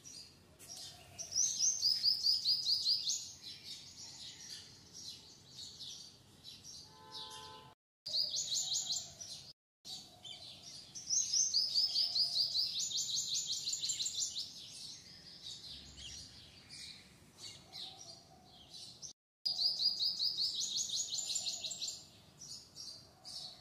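Songbird singing: rapid runs of high, evenly repeated chirps, each run lasting one to three seconds, four times over, with softer chirping between them. The sound cuts out completely for brief moments, as at an edit.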